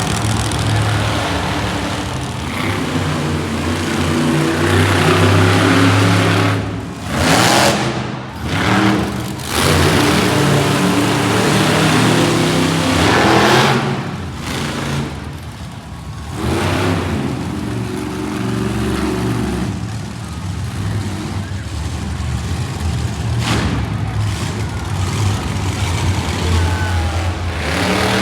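Monster truck engines running loud and revving, the engine note rising and falling over and over, with a couple of sharp drops and surges about a quarter of the way through.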